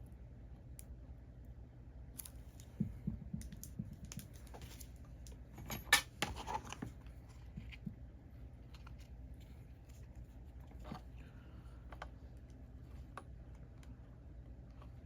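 Scattered light clicks, taps and scratches of hand tools working on a circuit board during desoldering with solder wick, the loudest cluster about six seconds in, over a steady low hum.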